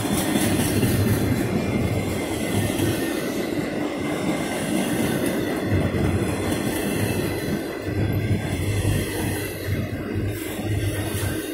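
Double-stack intermodal well cars of a freight train rolling steadily past on steel wheels, a continuous loud rail noise with no break.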